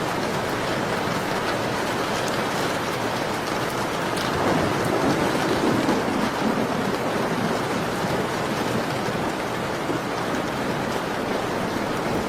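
Steady rain falling, with scattered small crackles of a wood fire. About four seconds in, a deeper, louder rush swells for a couple of seconds, then settles back.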